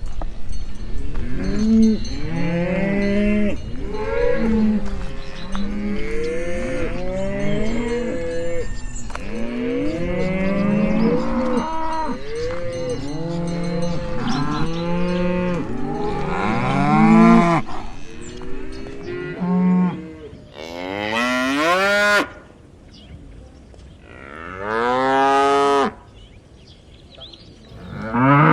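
Cattle mooing. Many moos overlap for most of the stretch, then come three separate long moos with short pauses between them.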